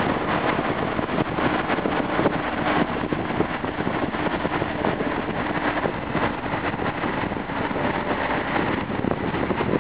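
Engines of BMW cars, an E30 among them, running as the cars roll slowly along the street, over a steady noisy background, with a faint steady hum in the first half.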